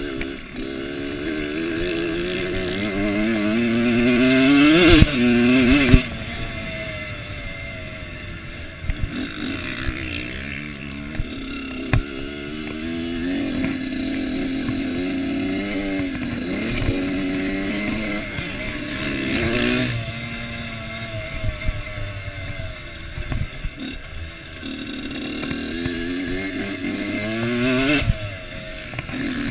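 Kawasaki KX85 two-stroke dirt bike engine revving hard and backing off again and again as it is ridden round a motocross track, its pitch climbing to a peak about five seconds in and then dropping off sharply. A few sharp knocks are heard along the way.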